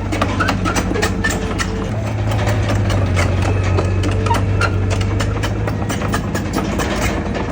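Heavy diesel engine of earthmoving machinery running steadily at a low hum, its note shifting up slightly about two seconds in, with frequent sharp metallic clicks and clanks throughout.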